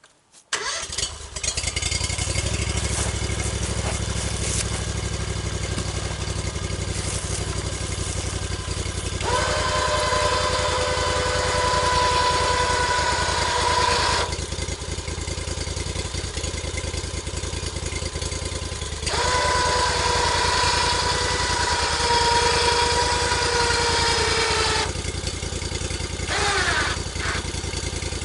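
Sawmill engine starting about half a second in and then running steadily. Twice, for about five seconds each, a higher steady whine rises over the engine as the mill works.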